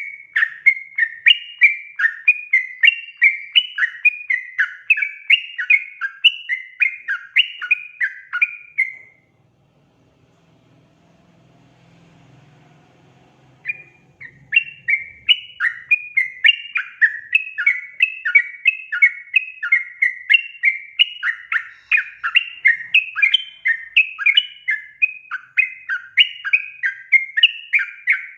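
Yellow-vented bulbul (trucukan) chattering: a fast, lively run of bubbly, bouncing notes, roughly three a second. The calls break off for about four seconds in the middle, leaving only a faint low hum, then start again.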